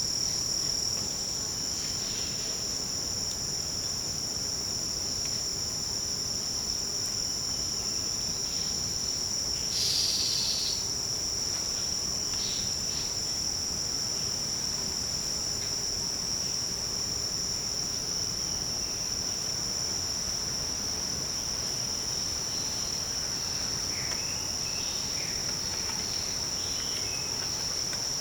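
Forest insects shrilling steadily in several high-pitched layers, a continuous drone. About ten seconds in, a short louder rasp of about a second rises over it, and faint short chirps come near the end.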